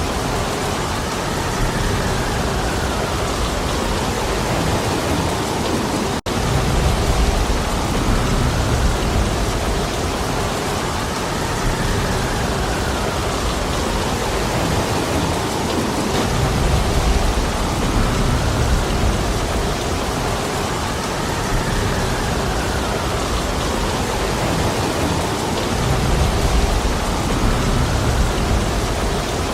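Heavy, steady rain hissing in a forest, with low rumbling gusts of wind swelling and fading every ten seconds or so. The sound cuts out for an instant about six seconds in.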